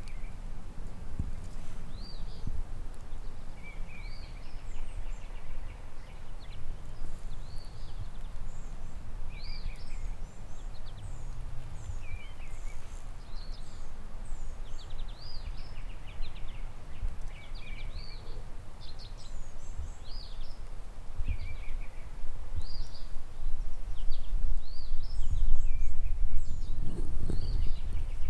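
Songbirds singing, a string of short chirps and trills one after another, over a steady low rumble that grows louder near the end.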